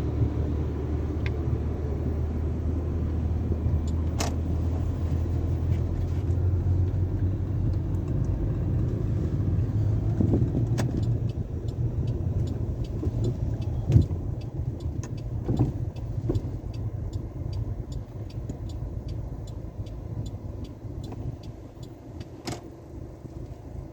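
Low, steady rumble of a car running, easing off in the second half, with scattered light clicks and a sharper knock about fourteen seconds in.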